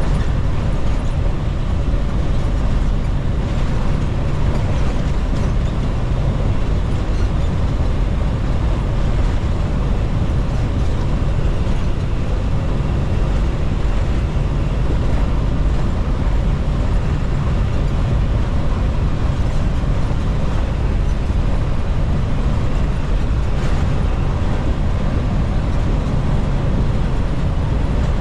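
Steady drone of a semi-truck cruising at highway speed, a blend of engine and road noise heard from inside the cab.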